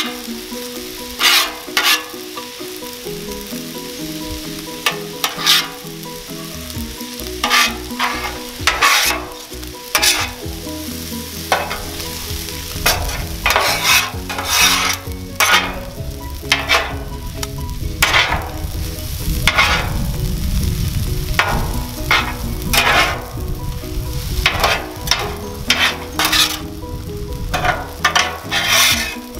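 Fried rice, shrimp and vegetables sizzling on a hot Blackstone flat-top griddle, with metal spatulas scraping and clacking against the steel plate in short, repeated strokes as the food is stir-fried.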